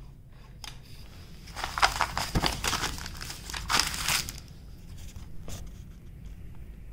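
Plastic packaging crinkling as it is handled, in a cluster of rustles from about two to four seconds in, with a few scattered clicks either side.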